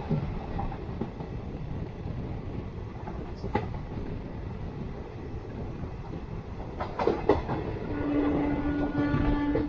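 Passenger express train running on the rails, with a steady rumble and a few sharp clacks of the wheels over rail joints. About eight seconds in, a steady horn tone starts and holds.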